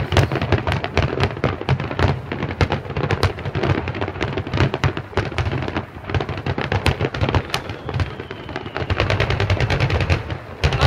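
Fireworks going off in a rapid, continuous barrage of bangs and crackles over a low rumble.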